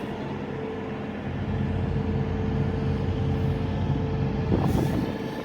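Steady engine drone with a constant hum, unchanging throughout.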